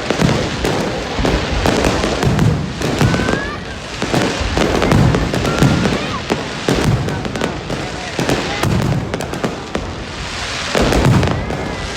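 Fireworks going off in a continuous barrage: dense crackling pops and deeper booms, with a few brief high whistles.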